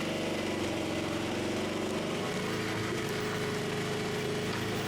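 Engine of a small side-by-side utility vehicle running steadily, towing a cut section of log.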